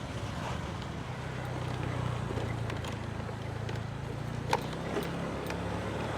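Motorbike engine running steadily, with a sharp click about four and a half seconds in.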